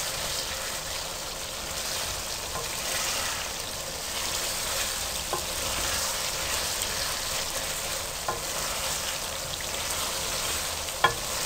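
Okra, chicken and tomato masala sizzling in oil in a metal karahi as a spoon stirs it, with a few light knocks of the spoon against the pan, the sharpest near the end.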